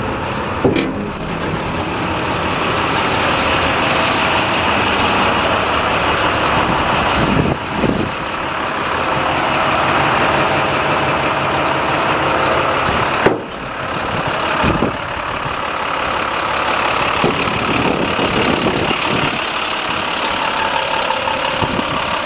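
Diesel engine of a 2012 International 7400 plow truck running steadily, with a few short knocks and clunks over it.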